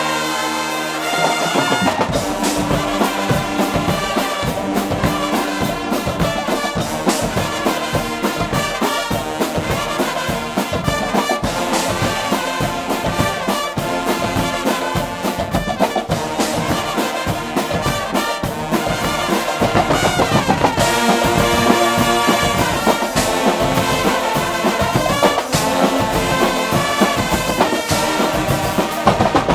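A Guggenmusik carnival band playing loud brass music with trumpets and trombones. Drums come in with a steady beat about a second and a half in.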